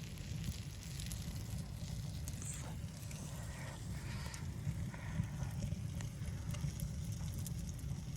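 Steady low rumble of blizzard wind, with scattered light crackles from a wood stove fire.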